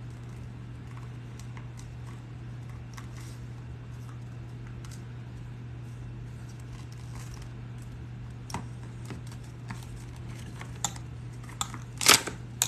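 Small metal tools and parts being handled, faint scattered clicks over a steady low hum, then a louder metallic clatter near the end.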